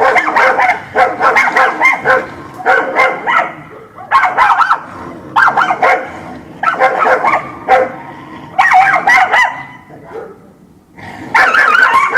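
Dog barking in quick bursts of several barks each, with short pauses between bursts and a longer pause near the end.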